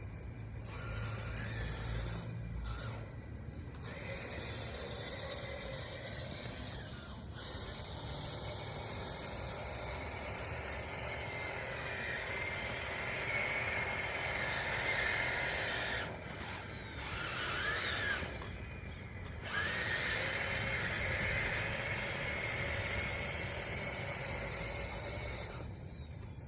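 Radio-controlled bulldozer's electric drive motors and gears whining as it works, the pitch rising and falling as the machine moves. The sound breaks off briefly several times.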